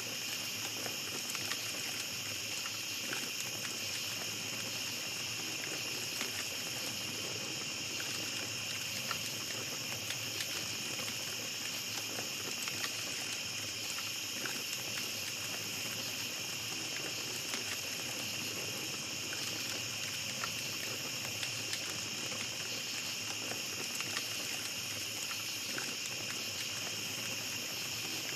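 Small campfire crackling with scattered faint pops, over a steady high chorus of night insects.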